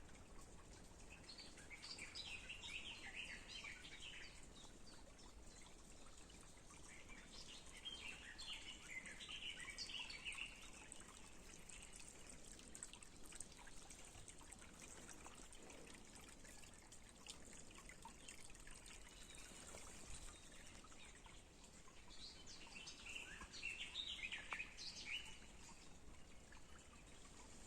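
A songbird sings three short phrases of a few seconds each, spaced well apart, over a faint steady hiss of outdoor background.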